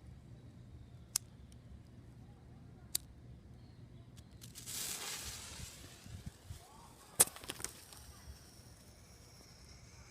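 Fireworks going off: a few single sharp pops, a hissing whoosh about halfway through, then a sharp bang followed quickly by two smaller cracks, over a steady low hum.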